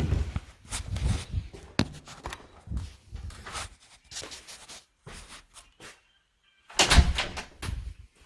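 Irregular knocks, thumps and rustles in a small room, with a sharp click about two seconds in and a louder thump near the end.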